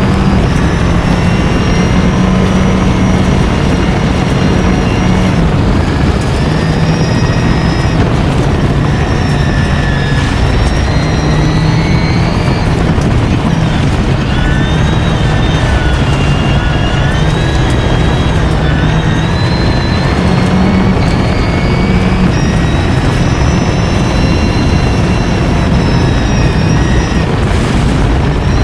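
A vehicle engine driven hard, its revs climbing and dropping again and again through gear changes.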